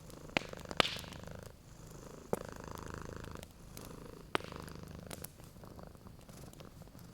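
Domestic cat purring steadily, the purr swelling and easing with each slow breath. Sharp crackles and pops of a wood fire snap over it several times, the loudest about a second in.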